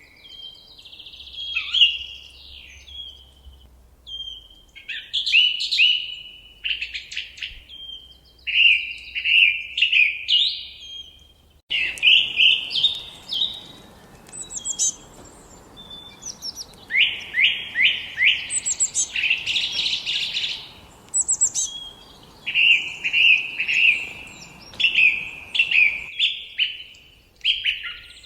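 Forest songbirds singing: repeated short phrases of quick chirps, down-slurred notes and trills, one after another with brief gaps. A faint hiss underlies the song from about twelve seconds in and cuts off suddenly near the end.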